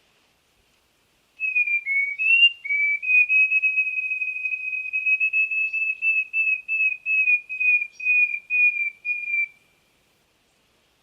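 A songbird singing one clear whistled song. A few short notes lead into a long steady whistle, which breaks into a run of quick repeated notes that fall slightly in pitch toward the end.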